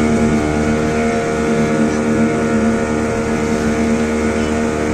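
Motorboat engine running at a steady cruising speed: a constant, unchanging drone, with water and wind noise.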